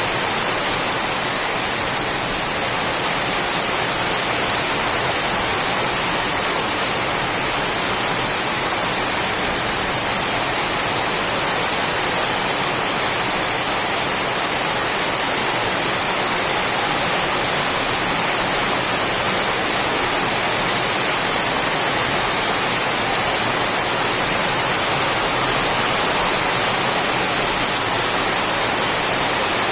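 Heavy rain falling steadily, an even unbroken hiss with no separate drops or thunder.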